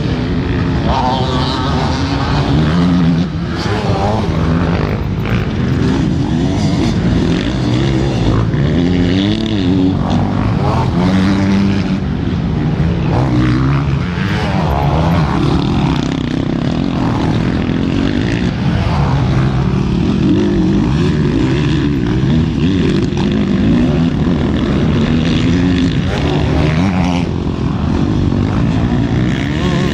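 Several racing motorcycle engines running together, their pitches rising and falling over one another as they rev up, shift and back off.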